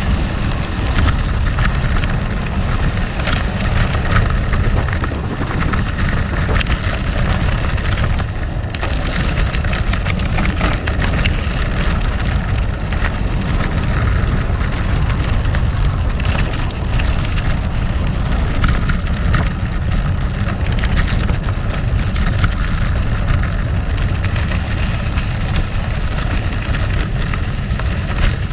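Gravel bike tyres crunching and crackling over rough, loose gravel, with the bike rattling over the stones and a steady low rumble underneath.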